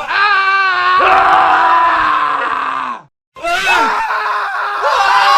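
Men screaming: one long scream that ends abruptly about three seconds in, then after a short silent gap another scream begins.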